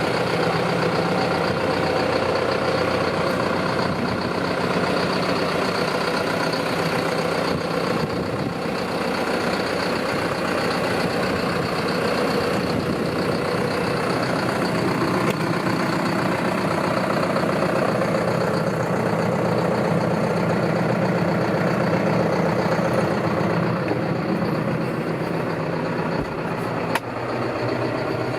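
John Deere 6430 tractor's four-cylinder diesel engine running steadily at an even speed.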